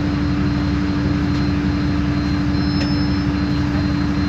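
Isobus City 1200 city bus running at a steady speed: its MAN D0836 diesel drones, with a steady, unchanging drivetrain whine from the ZF automatic gearbox and differential over it.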